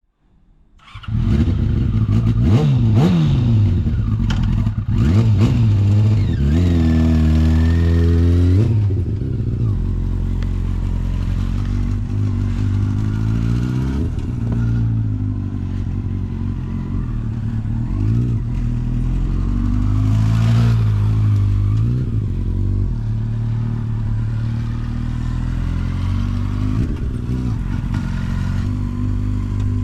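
Yamaha YZF-R6 (5EB) inline-four engine breathing through a Striker titanium full exhaust, catching about a second in and then revving up and down repeatedly before settling into steadier running with occasional rises in revs. It runs without abnormal engine noises.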